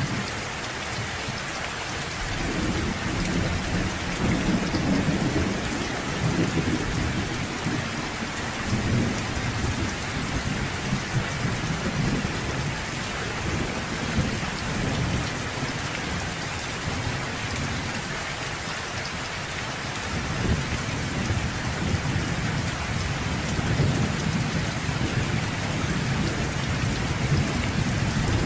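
Steady rain falling hard on surfaces, with low rolls of thunder rumbling in and out, heaviest a few seconds in and again through the last third.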